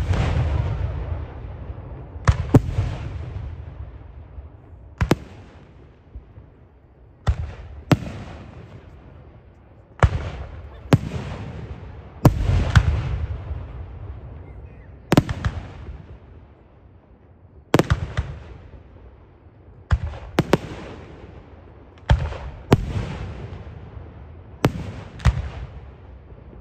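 Aerial fireworks shells bursting in a display: a steady string of sharp bangs every one to three seconds, each followed by a fading echo. The loudest come right at the start and about halfway through.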